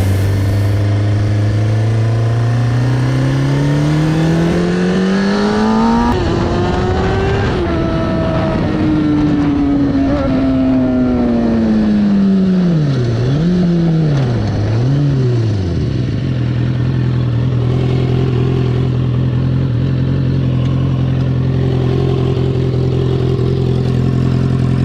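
2004 Kawasaki ZX-6R inline-four motorcycle engine accelerating with a rising note, then slowing with two quick throttle blips and settling to a steady idle. The rider hears the note as off and very high: the exhaust has come apart.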